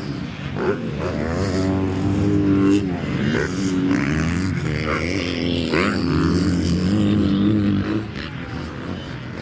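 Motocross dirt bike engines revving, their pitch rising and falling again and again as they climb through the revs and back off. Louder through the middle, easing near the end.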